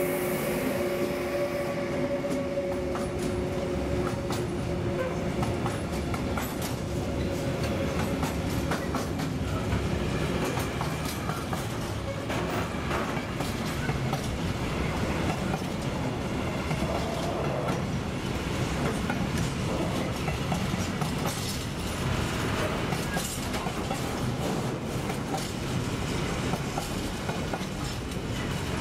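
A long container freight train rolling past close by. A steady two-note hum from the passing electric locomotive fades over the first few seconds, then the container wagons keep up a continuous rumble with clickety-clack wheel clatter over the rails.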